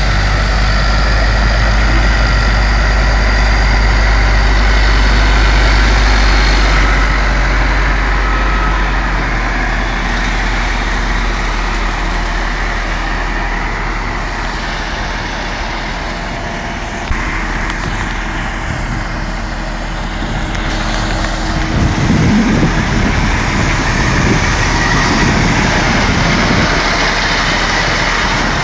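Heavy truck engine running steadily, with a stronger low rumble in the last few seconds.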